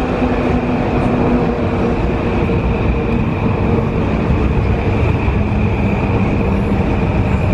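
Amtrak passenger train led by a GE Genesis P32AC-DM locomotive approaching a station: a steady loud rumble with a steady high whine over it.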